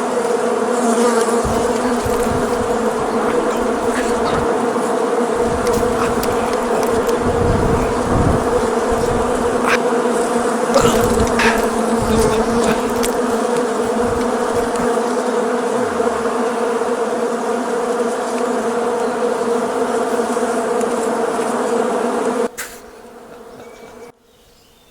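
A swarm of insects, like bees or wasps, buzzing loudly and steadily at one even pitch, with a few light clicks, then cutting off suddenly near the end.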